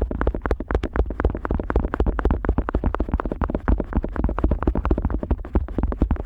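Otoscope rubbing and scratching over the ear of a Neumann KU100 dummy-head microphone, heard right at the mic's ear: fast, continuous strokes, several a second, over a heavy low rumble.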